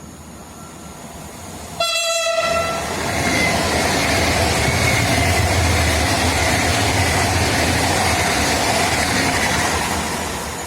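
Passenger train sounding one short horn blast about two seconds in as it reaches the microphone, then passing at speed with a loud rush and rumble of wheels on rails that fades away near the end.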